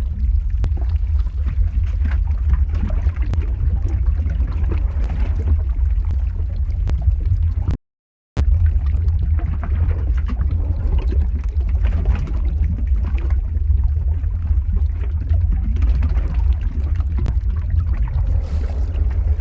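Lava flow ambience sound effect: a deep, steady rumble under a dense crackling texture. The sound cuts out completely for about half a second a little before the middle, then resumes.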